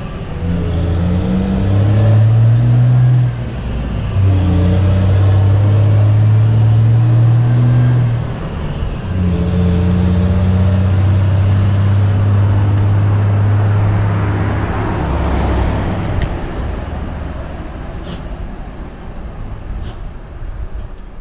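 A motor vehicle's engine running close by, its pitch climbing and then dropping back in steps, as when shifting through gears. After about fifteen seconds it fades away, leaving a steady rush of wind and road noise with a few faint clicks.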